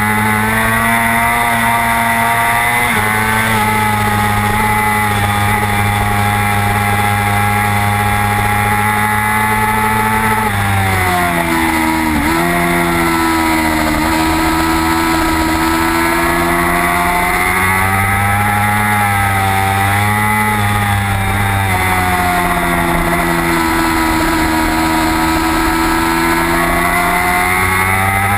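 Racing motorcycle engine at high revs, heard onboard as the rider works through a lap. About eleven seconds in the revs drop sharply through a series of downshifts on braking for a corner, then climb again as the bike drives out; a smaller dip and rise comes a little past halfway.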